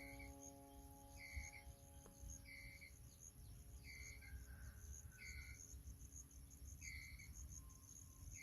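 Faint insect chirping: a short chirp about once a second over a quicker, higher pulsing and a steady high whine. A bell-like note struck just before fades out over the first few seconds.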